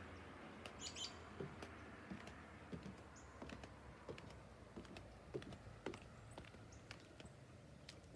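Very quiet outdoor morning ambience: a few faint, brief bird chirps over a soft hiss, with scattered light clicks and ticks.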